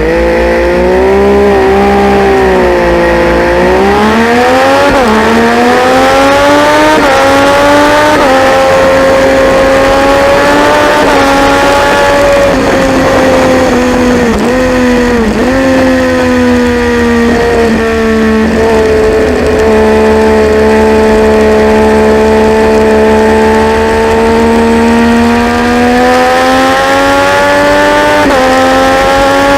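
Triumph Daytona 675 three-cylinder race bike engine at high revs under racing load. The pitch climbs and drops sharply at each upshift early on, dips briefly twice for downshifts midway, then holds fairly steady and slowly rises near the end.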